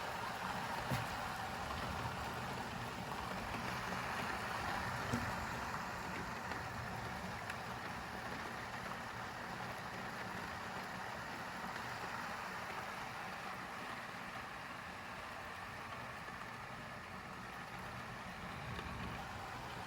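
Steady rush of heavy rain and gusting wind in a thunderstorm, easing slightly past the middle and rising again near the end.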